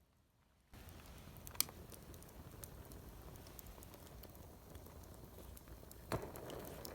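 Outdoor cooking over a wood fire: a steady hiss with scattered sharp crackles, two of them louder, about a second and a half in and near the end. It starts abruptly just under a second in.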